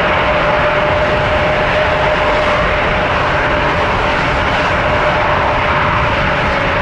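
Boeing 777-200LR's GE90 turbofan engines at takeoff thrust: a loud, steady rush with a single steady whine held throughout.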